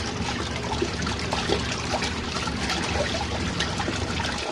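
Compact RV washing machine running a cold rinse: water splashing and sloshing in the tub over a steady low motor hum, both stopping suddenly at the end.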